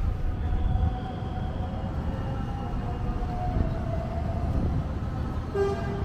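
Train running with a steady low rumble and a faint whine that drifts slowly in pitch; a short beep sounds near the end.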